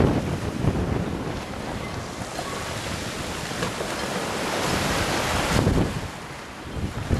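Wind buffeting the microphone over sea waves washing in a harbour, with a louder wash of water about five seconds in.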